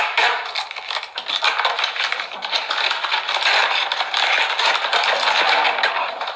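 Dense, continuous crackling and scraping made of many small rapid clicks, like material being rubbed and handled.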